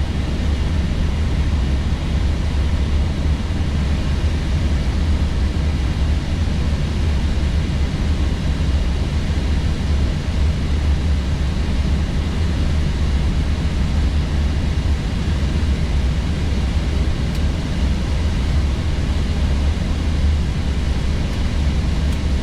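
Steady cockpit noise of an Airbus A321neo: a deep, even drone with a hiss of air over it, unchanging throughout.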